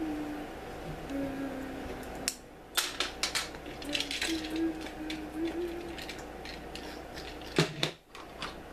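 Small plastic LEGO bricks clicking and rattling as pieces are handled and sorted during building, in scattered taps, with soft humming under them.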